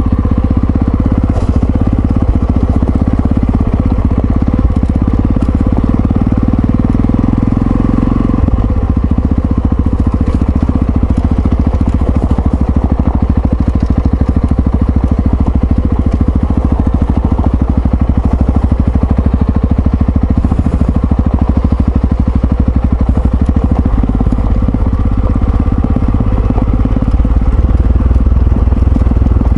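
Yamaha XT660Z Ténéré's single-cylinder four-stroke engine running under way, a steady pulsing note whose pitch shifts about eight seconds in and again near the end.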